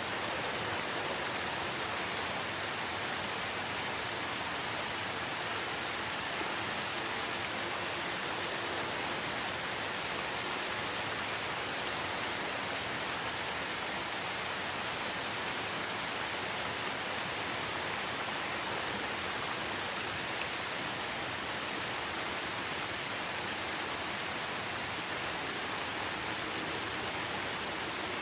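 Steady rainfall, a constant even hiss with faint individual drops ticking through it.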